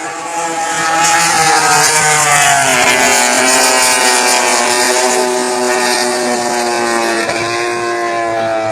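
Racing motorcycle engines running at high revs, a loud, sustained pitched note that slides down early on and dips briefly about two and a half seconds in and again near the end.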